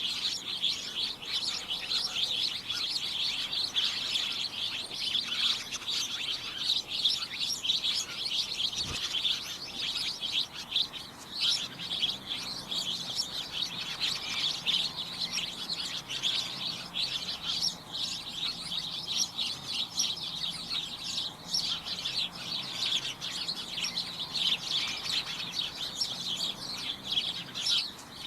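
Many small birds chirping and tweeting at once in a dense, continuous chorus, with a faint low hum in the background from about twelve seconds in.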